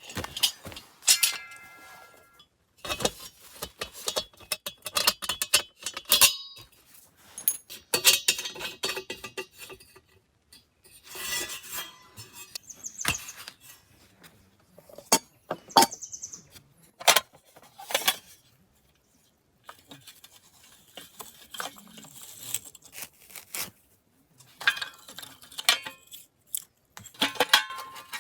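Camp cookware and utensils being handled: a busy series of clinks, knocks and clatters of metal and glass, a few of them ringing briefly.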